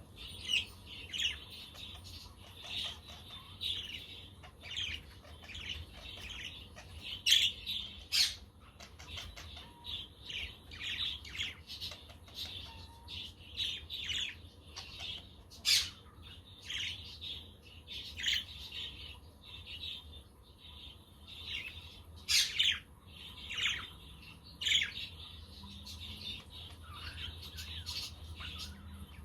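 A flock of budgerigars chattering and warbling without a break, with a handful of louder, sharp squawks scattered through. A low steady hum runs underneath.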